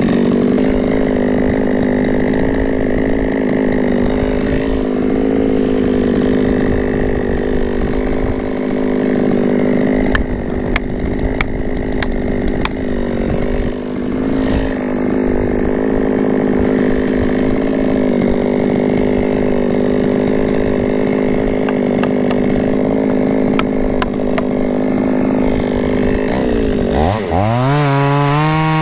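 Two-stroke chainsaw running at a steady high pitch, cutting into dead pine. Near the end the throttle is let off and opened again several times, so the engine note drops and rises.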